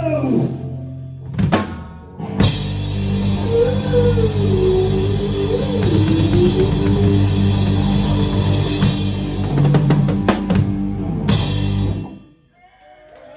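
Live rock band playing: drum kit with bass drum and cymbals under bass and guitars. After a brief break about two seconds in the full band comes back, then stops abruptly near the end as the song finishes, leaving faint voices.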